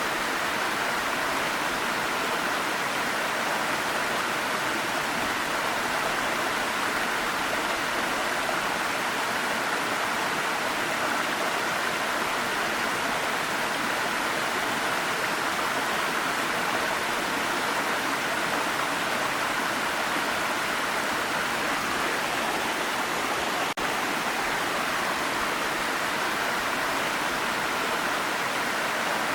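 Waterfall rushing in a steady, even roar of falling water, with one momentary dip about 24 seconds in.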